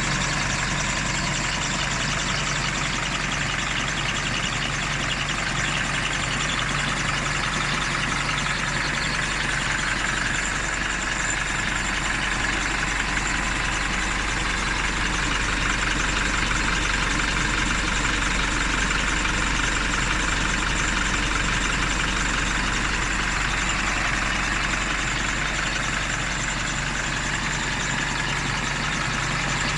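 Isuzu 4JK1-TC 2.5-litre four-cylinder turbodiesel idling steadily.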